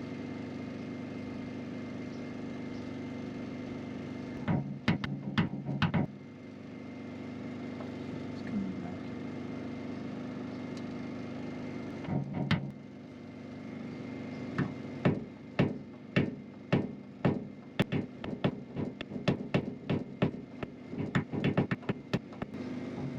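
Light tapping on the truck's sheet-metal body panel during paintless dent repair, knocking down the puckered high spots around the dent: a short group of taps, a pause, then a steady run of about two taps a second toward the end.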